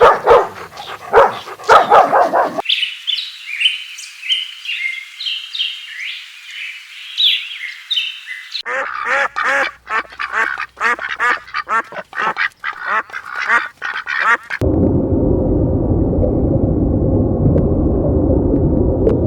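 A string of separate animal recordings: a dog barking at first, then high, quick chirping calls, then a duck quacking in rapid repeated calls for several seconds. Near the end comes a dense, steady, noisy stretch.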